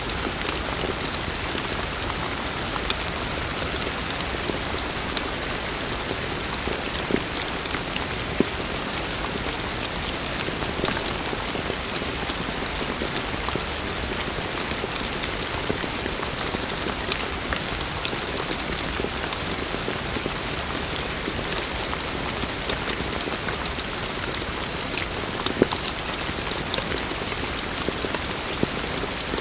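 Steady heavy rain falling on a surface, a dense even hiss with scattered louder individual drop splats.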